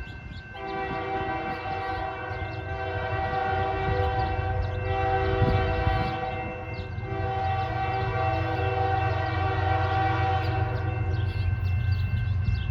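Diesel freight locomotive's multi-chime air horn sounding in long blasts, broken briefly twice, over the low rumble of the diesel engines; the horn stops near the end while the engine rumble carries on.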